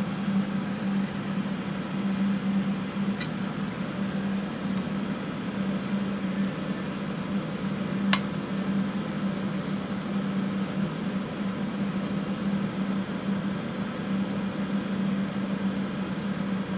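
Several fans running for soldering fume extraction: a steady whooshing hum with a low drone, and a sharp light click about eight seconds in.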